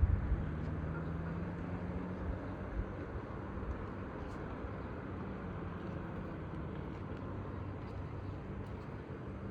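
Steady outdoor background noise with a faint low hum, like a distant engine or traffic, and no distinct events.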